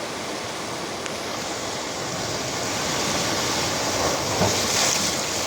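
Ocean surf: a steady rushing noise of waves, swelling louder a little past halfway and peaking near the end as a wave comes in.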